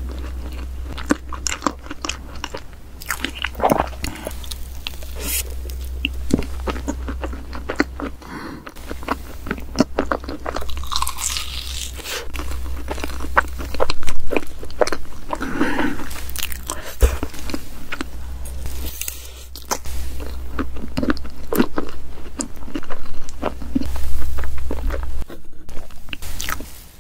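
Close-miked chewing and biting of soft layered cake, with many small wet clicks and mouth sounds. A steady low hum runs underneath.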